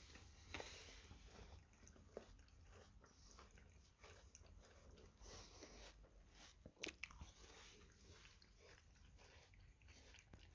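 Cat lapping water from a bowl: faint, quick wet clicks of the tongue, with a few sharper ticks among them.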